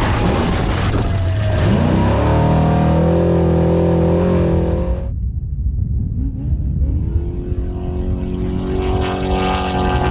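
Off-road race truck engine at high revs: the pitch falls at the start as it passes, then climbs and holds steady. About halfway through the high hiss cuts off abruptly and the engine carries on, revving up again near the end.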